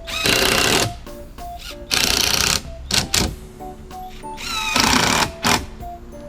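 A power tool running in four short loud bursts, one with a rising whine as it spins up, over background music.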